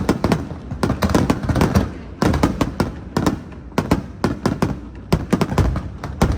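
Aerial fireworks display: volleys of sharp bangs and crackling reports, arriving in quick irregular clusters of several bangs with short gaps between.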